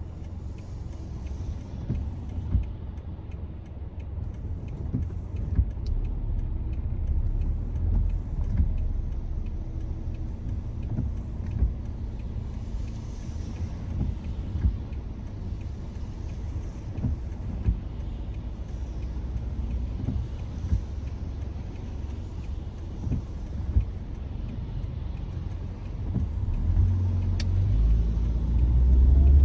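Car driving: a steady low road and tyre rumble with occasional short thumps from bumps, growing louder in the last few seconds.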